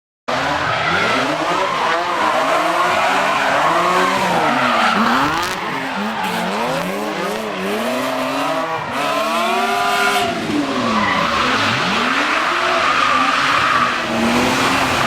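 Drift car's engine revving up and down again and again, with tyres squealing and skidding.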